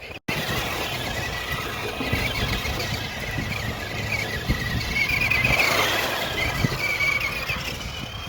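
Electric motor and gears of a radio-controlled car whining as it drives over rough ground, the whine rising and falling with the throttle and loudest around the middle, over a crackle of tyres on the ground.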